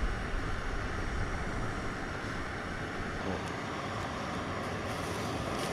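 Jetboil Flash gas stove burner running at full blast: a steady rushing hiss as it heats a cup of water.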